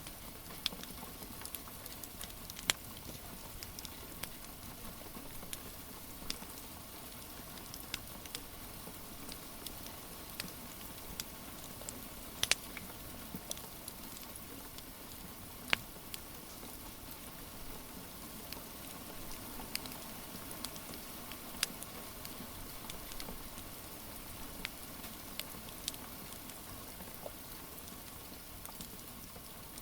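Steady rain hiss mixed with a crackling wood fire, whose sharp pops come at irregular moments. The loudest pops come a few seconds in and at about twelve and sixteen seconds.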